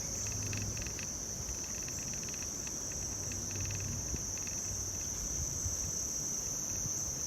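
Steady high-pitched insect chorus, crickets or katydids trilling without a break, with short pulsing chirps from another insect at a lower pitch now and then.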